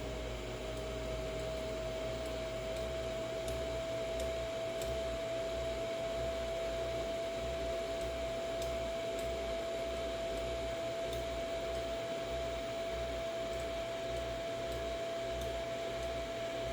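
ASUS ROG Strix GTX 1080 graphics card running with a steady whine and a sandy, grainy noise, with faint irregular clicks scattered through it. These are the sandy and clicky noises the owner finds strange in the four-year-old card.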